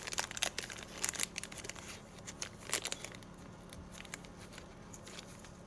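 Plastic bag crinkling as it is opened and handled to pull out nail tips, busiest in the first three seconds, then only a few light clicks.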